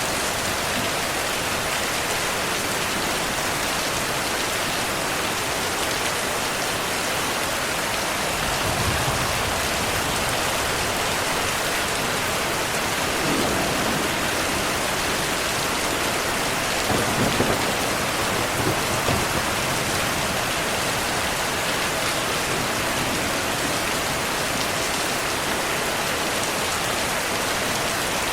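Steady rain, with soft low rumbles of distant thunder about a third of the way in, around the middle, and again a little later.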